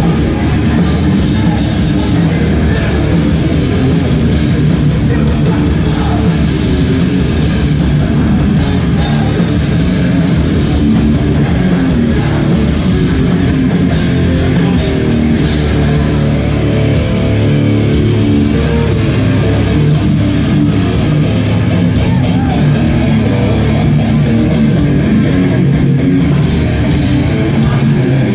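Hardcore band playing live and loud: distorted electric guitars with drums.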